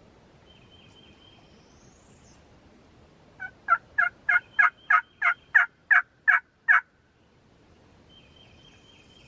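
A run of about a dozen loud turkey yelps, evenly spaced at about three a second, starting a few seconds in and stopping abruptly.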